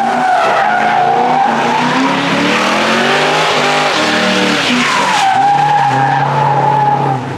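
A car doing a burnout: the tyres squeal in a wavering high tone while the engine revs, its pitch climbing and falling in the middle. The squeal fades, comes back loudly, then cuts off just before the end.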